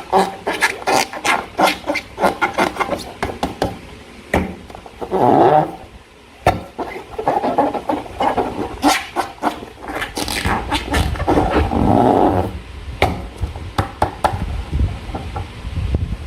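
Slime being squeezed and worked with a balloon: a dense run of wet squelching clicks and crackles, with longer drawn-out squishing stretches about five seconds in and again around eleven seconds.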